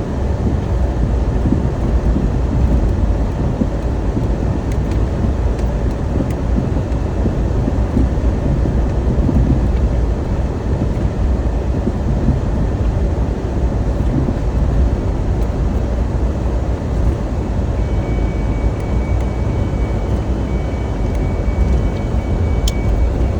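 Steady, loud low rumbling noise that holds unchanged throughout, with two faint high steady tones entering in the last few seconds.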